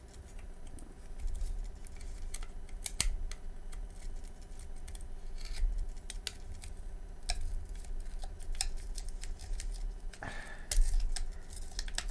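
Irregular sharp clicks and light metallic taps of hand tools and the desoldering gun working on an old circuit board, with a brief rush of noise about ten seconds in.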